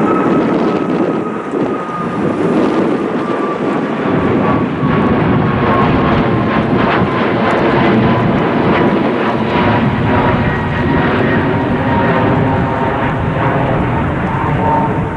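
Jet airliner engines close by, a loud steady noise with a thin whine slowly falling in pitch; a deep rumble builds about four seconds in and holds.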